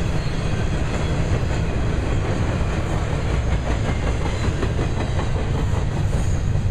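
Intermodal stack train rolling past: a steady, loud rumble of the freight cars with scattered clicks of wheels over the rail.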